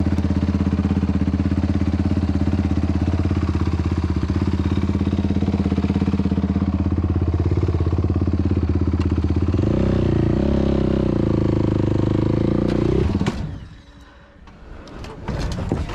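Yamaha YFZ450R quad's single-cylinder engine running through an aftermarket Rossier R5 exhaust, steady at low revs. About ten seconds in the revs step up and hold for a few seconds. Then the sound drops away suddenly, leaving a few faint clicks.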